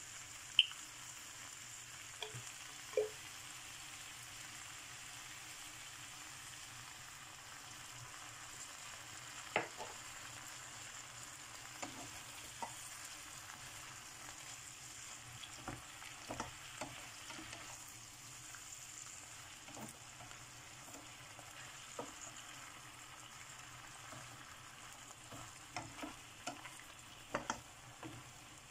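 Shrimp and onions frying in a hot pan with a steady sizzling hiss, while a spatula stirs and turns them, knocking and scraping against the pan now and then and more often near the end.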